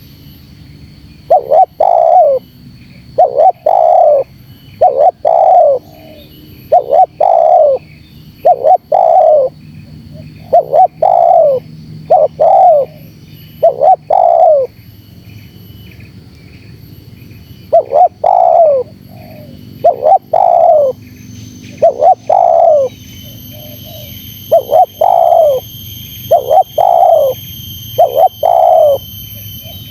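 Spotted dove cooing its rapid, close-set challenge call, the kind that provokes a rival male; a loud phrase comes about every two seconds, with a pause of about three seconds midway. A faint steady high-pitched whine joins about three-quarters of the way through.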